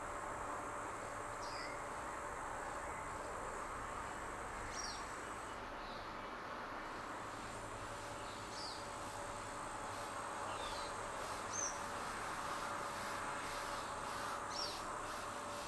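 Short, high, down-slurred songbird chirps, one every second or two, over a steady background drone of insects.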